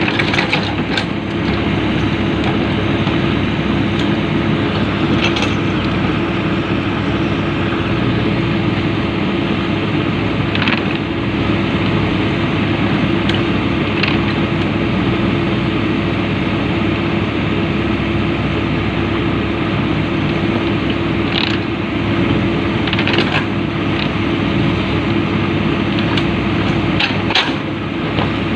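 Komatsu PC-200 excavator's diesel engine running steadily, with a few sharp metallic clicks and clanks here and there.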